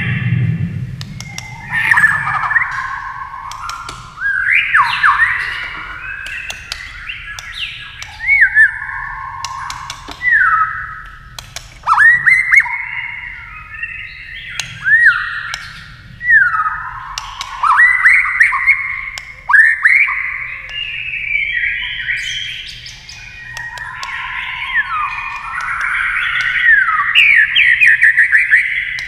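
White-rumped shama singing a long, unbroken run of varied phrases: quick upswept and downswept whistles mixed with harsher notes, with sharp clicks between the phrases.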